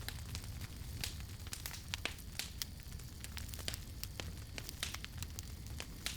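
Wood campfire crackling, with frequent irregular sharp pops and snaps over a steady low rumble of burning.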